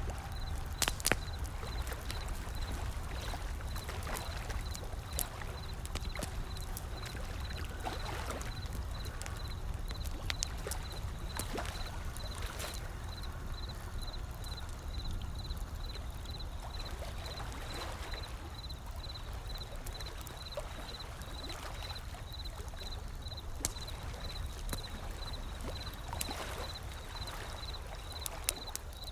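Wood fire crackling with scattered sharp pops, layered over a steady low rumble and ocean waves washing in gently every few seconds.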